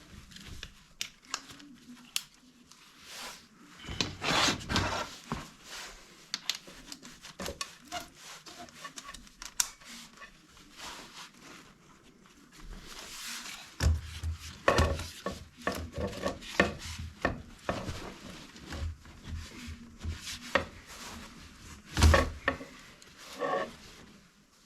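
Irregular scraping and rubbing with scattered knocks, as hard objects are worked in the chimney opening, louder about four seconds in, again from about fourteen to seventeen seconds in, and with a sharp knock about twenty-two seconds in.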